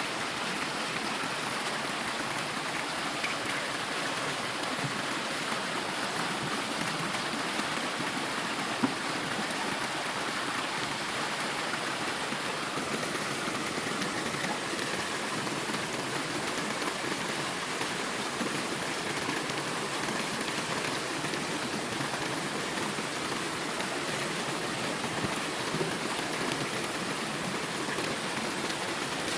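Stream water running with a steady rush, with a single short tap about nine seconds in.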